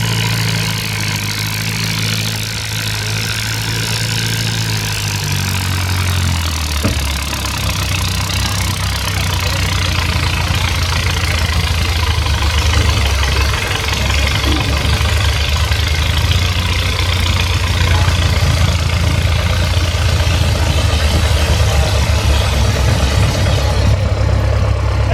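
Antique farm tractor engine running steadily. Its note drops and settles about a quarter of the way in, then holds while it slowly grows louder.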